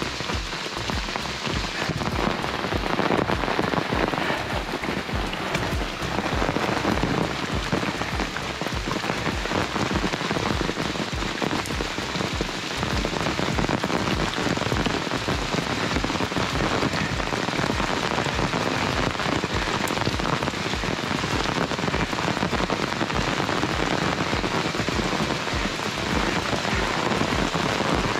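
Heavy, steady rain falling on the open umbrella held overhead and on the wet vegetation around it.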